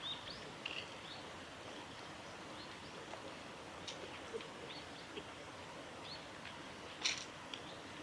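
Wild birds calling: short high chirps scattered through, with the loudest about seven seconds in, over a steady outdoor background hiss.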